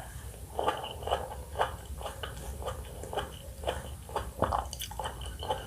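A person chewing pomelo close to the microphone, with short mouth sounds about twice a second.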